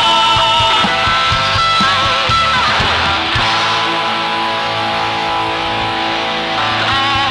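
Live rock band playing with distorted electric guitar and drums; near the middle the drumming thins out and the guitars ring on held chords.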